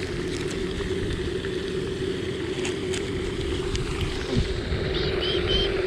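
Wind rumbling on the microphone over a steady low hum, with a few short high chirps near the end.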